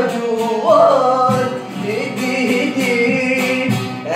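A song with a male singer over instrumental accompaniment: a sung phrase about a second in, after which the instruments carry on with held notes until the voice comes back near the end.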